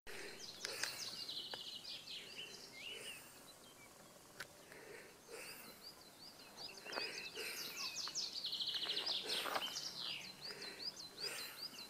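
Songbirds singing: many short high chirps, with a rapid trill about a second in and another later on.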